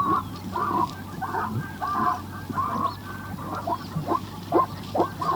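Farm birds calling in a rapid series of short repeated calls, about three a second, over a steady low hum.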